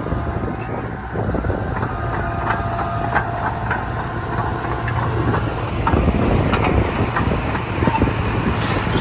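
Komatsu D31P bulldozer's diesel engine running steadily, with scattered knocks and rattles through it, a little louder from about six seconds in.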